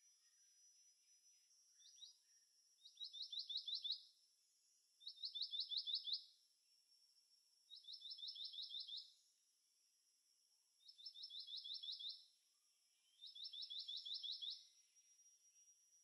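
A bird singing five short phrases, each a quick run of six or seven falling whistled notes lasting about a second, a couple of seconds apart, over a faint steady high hiss.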